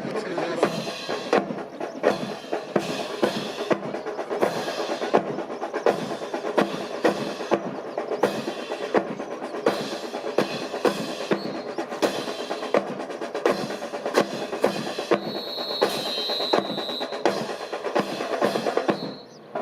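Marching drums, snare and bass drum, playing a rapid steady cadence as music for a drill display.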